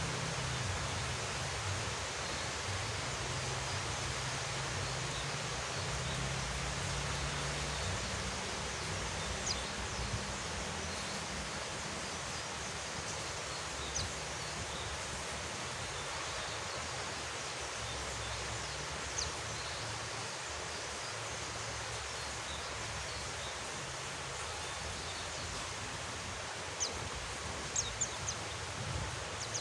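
Steady rain, an even hiss, with a few brief high chirps scattered through it, most of them near the end.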